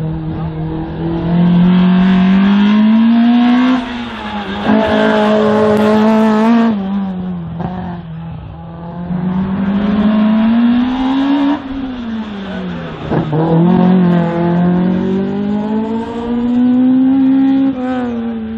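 Race car's engine driven hard through an autoslalom course, revving up in three long climbs in pitch, each cut off by a sudden drop as the driver lifts off.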